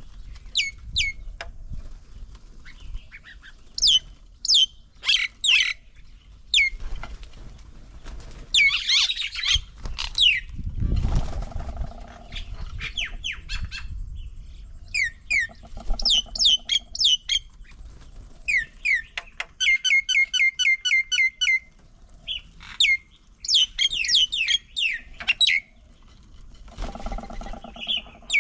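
Several birds calling: many short, sharp calls sweeping down in pitch, and squawks. A quick rattling run of notes comes about two-thirds of the way through, and a lower, harsher call comes twice.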